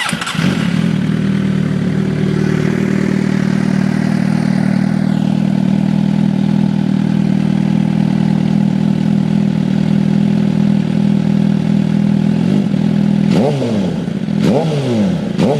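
2008 Suzuki GSX-R750's inline-four running through an M4 slip-on exhaust with the catalytic converter cut out. It idles steadily, then takes a few quick throttle blips near the end.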